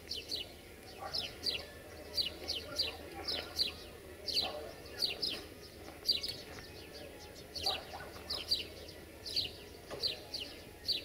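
Small songbird singing: short, high chirps that slide down in pitch, often in quick pairs, repeated over and over.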